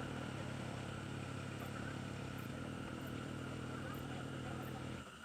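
An engine running steadily, a low hum with faint steady higher tones, which cuts off abruptly just before the end.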